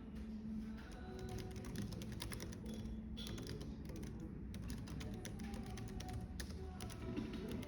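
Typing on a computer keyboard: a quick, irregular run of keystroke clicks. Behind it, a steady cafe background with soft music.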